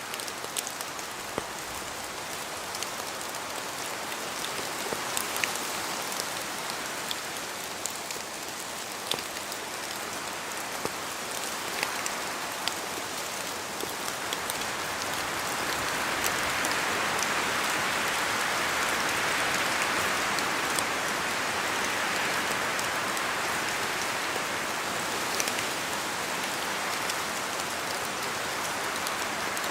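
Steady rain in a forest, with scattered sharp drips of drops falling from the trees. A broader rushing swell rises about halfway through and holds, like a gust of wind through the branches.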